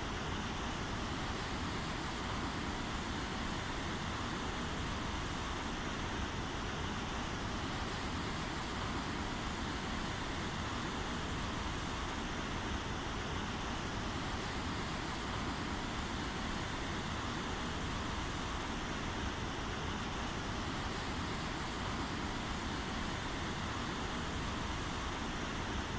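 Steady rainfall, an even hiss of falling rain with no breaks.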